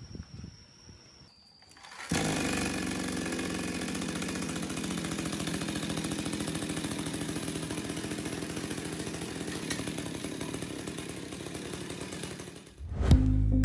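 Small two-stroke chainsaw engine running steadily on a motorized bicycle. It comes in suddenly about two seconds in, and music takes over near the end.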